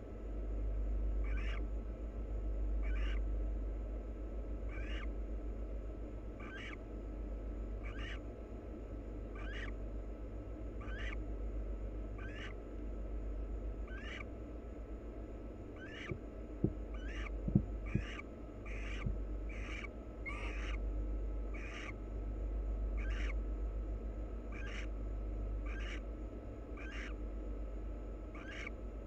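Barn owl giving short, rasping hiss-like calls about every second and a half, coming faster near the middle. These are the repeated snoring calls barn owls make in the nest box. A steady low hum runs underneath, and a few sharp knocks come just past the middle.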